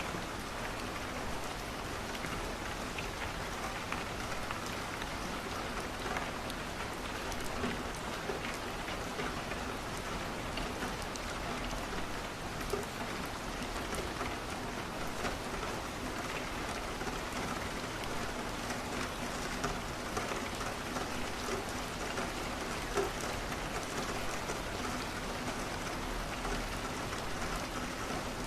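Steady rain falling, with occasional small pops and clicks from a crackling wood fire.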